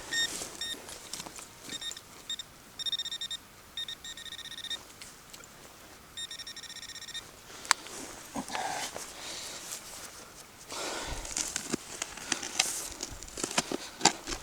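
Metal detector beeping over a target in the dig hole, first in short rapid pulses, then in longer steady tones. Then a sharp click and a stretch of scraping, crunching digging in gravelly soil.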